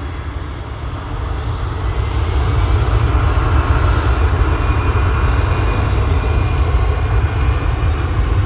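Airbus A319 jet engines at takeoff thrust, a loud, steady engine roar that builds over the first couple of seconds and then holds.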